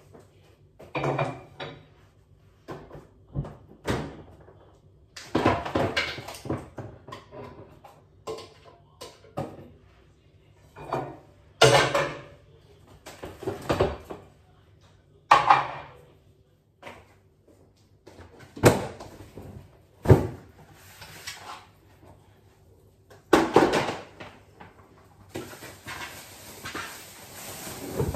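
Household tidying: irregular bumps, clicks and rustles of things being handled and put away, with a few sharp knocks. Near the end comes about three seconds of steady hiss.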